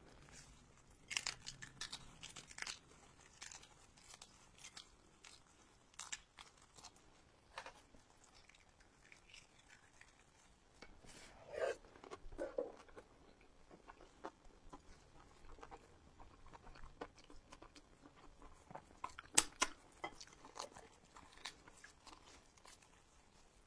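A person chewing and biting food close to the microphone, with scattered short crunches and clicks, the loudest cluster about three-quarters of the way through.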